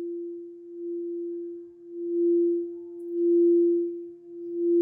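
A singing bowl sounding one steady, sustained tone that swells and fades in a slow pulse about once a second, the swells growing stronger partway through.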